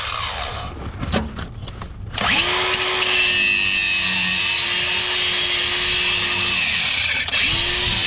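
Angle grinder cutting through a rusted exhaust pipe flange. The motor winds down in the first second, after a couple of seconds it spins back up and cuts steadily with a hissing grind, then it is let off again near 7 s and restarted just before the end.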